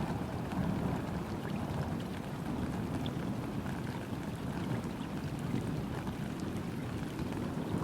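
Gentle rain falling steadily onto a river's surface, an even patter of drops with scattered single drop ticks over a low, steady wash.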